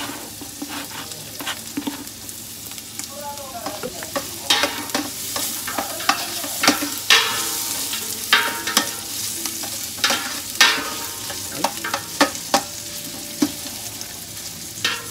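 Garlic, ginger and onion sizzling in hot oil in a stainless steel pot while being stirred, the metal spatula clacking and scraping against the pot. The clacks come thick and sharp from about four seconds in and are the loudest sounds.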